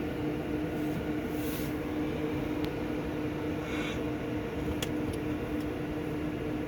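Steady vehicle hum with a constant droning tone, broken by a brief rattle about four seconds in and a couple of faint clicks; recorded as the brake system's abnormal noise.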